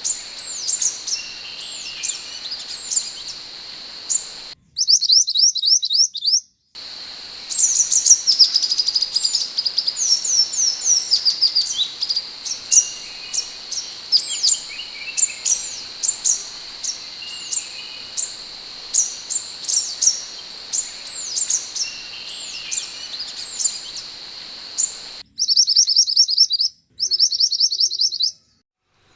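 Scarlet minivet calling: a long run of short, high, thin chirps that slide downward, over a steady high drone. Twice the background cuts out abruptly to a clean, faster series of chirps, the sign of an edited, looped training recording.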